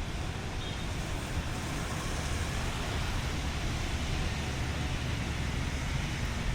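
Steady road traffic noise: a low engine rumble under a continuous hiss.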